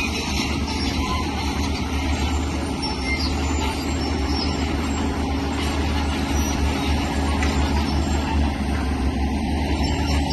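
Heavy diesel earthmoving machinery running steadily under load, a low engine drone with rough mechanical clatter over it.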